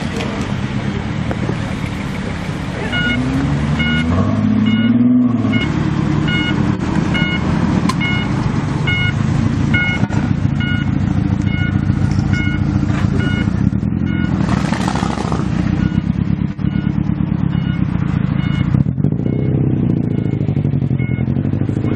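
Tuned Japanese cars rumbling at low speed as they pull out, one engine revving up with a rising pitch about three to five seconds in. A short electronic beep repeats about twice a second through most of it.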